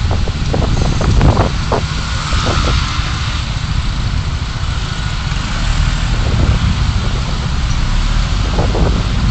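Road traffic and driving noise picked up by a dashcam on a moving car: a steady low rumble with wind on the microphone and a few short knocks in the first two seconds.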